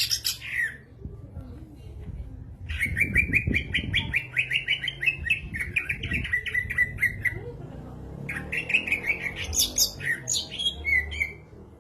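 Cucak ijo, a green leafbird, singing in three phrases of fast, rapidly repeated chirping notes: a brief one at the start, a long trill from about three seconds in, and another near the end that closes on a few gliding notes.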